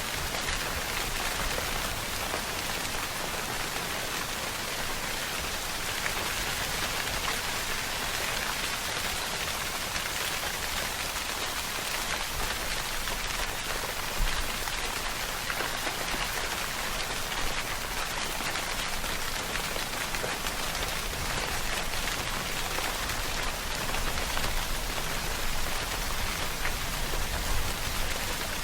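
Steady rainfall: an even hiss of rain with scattered individual drop ticks, one sharper tick about halfway through.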